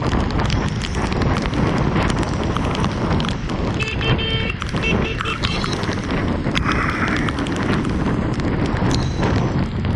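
Heavy rain falling, a dense steady pattering with many small drop impacts. A brief high chirping sound comes in about four seconds in.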